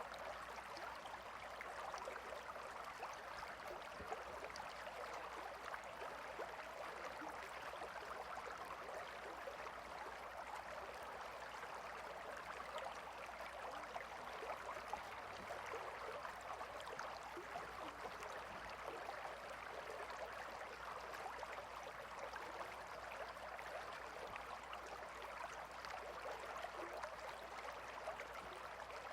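Gentle river flowing, a steady babbling of water with fine trickles and splashes.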